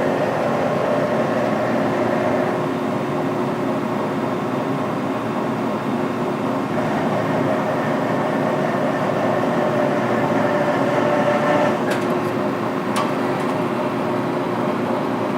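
Large Mori Seiki SL-8 CNC lathe running under power, a steady machine hum with a whine in it. There are two short clicks about twelve and thirteen seconds in.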